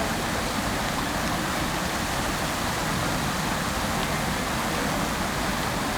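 Water from a public fountain falling and splashing steadily into its basin: an even, unbroken rushing hiss.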